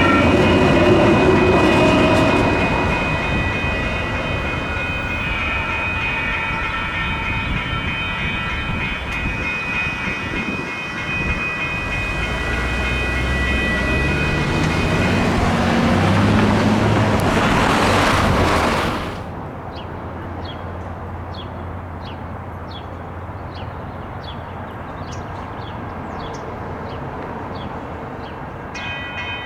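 Railroad crossing electronic bells ringing steadily as a light rail train passes, its electric motors giving a rising whine under loud wheel and rail noise. About nineteen seconds in the train noise cuts off suddenly, leaving a quieter stretch with faint regular ticks, and the bell ringing returns near the end.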